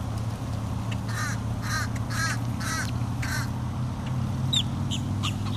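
A crow cawing about six times in quick succession, roughly two caws a second, followed by a couple of short high bird chirps. A steady low hum runs underneath.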